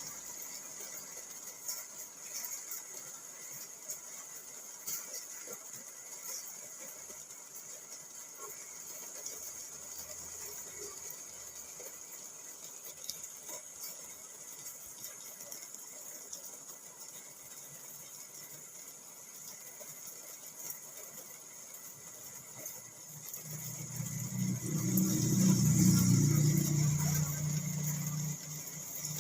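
Rain pattering on a car's body and windscreen, heard from inside the car as a steady hiss with many small ticks. Near the end a vehicle's engine grows louder and then fades again, like a vehicle driving past.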